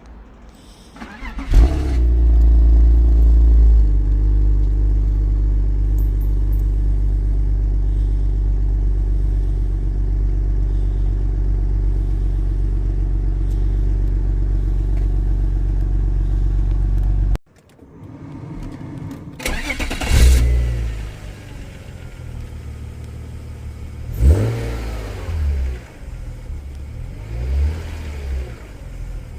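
BMW E36 328i's M52B28 2.8-litre straight-six, breathing through Schmiedmann headers and the stock exhaust, starts up about a second and a half in. It runs a fast idle for a couple of seconds, then idles steadily. The sound cuts off suddenly a little past the middle, and the engine is then revved in several short blips.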